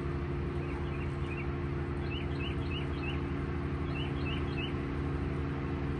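A small bird chirps in three quick runs of short rising notes, three or four notes to a run, over a steady low machine hum.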